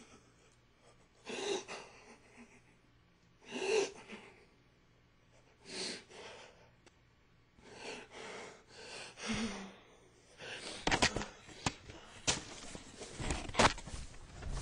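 A man's gasping, heaving sobs, one breath about every two seconds, followed near the end by a run of sharp knocks and clatter.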